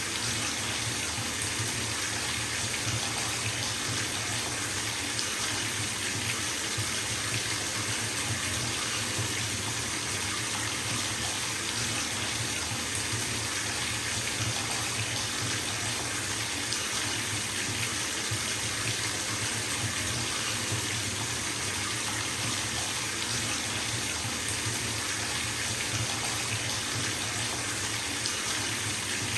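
Bathtub filling from a running tap: water pouring steadily into the tub.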